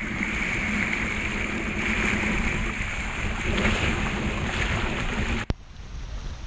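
Choppy water sloshing and wind buffeting the microphone as a steady rushing noise. About five and a half seconds in there is a click and the level drops suddenly, after which a quieter wash of water carries on.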